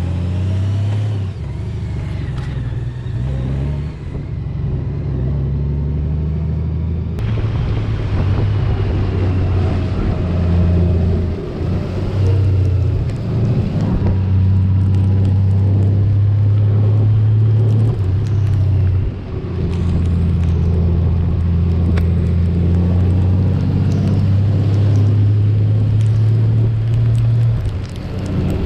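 Motorcycle engine running steadily on the road, a strong low drone with road and wind noise over it; the level dips briefly a few times as the note drops and picks up again.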